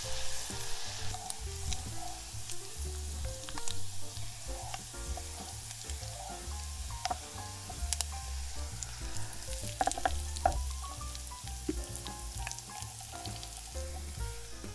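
Minced garlic and ginger sizzling and popping as they fry in oil in a small saucepan, stirred with a silicone spatula. The sizzle is loudest in the first second, and soft background music runs underneath.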